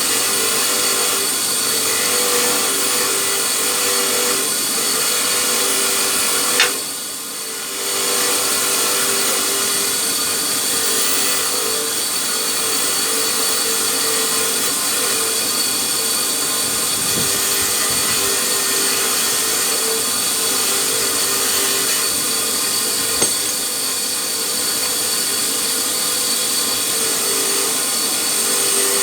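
Electric hand power tool running steadily under load with a constant whine. It drops off briefly about seven seconds in, then carries on.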